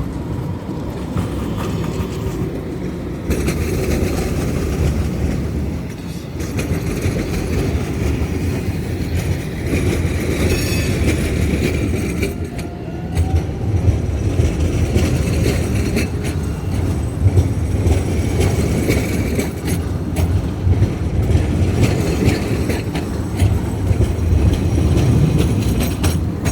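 A tram running on its rails, its wheels and running gear making steady rail noise.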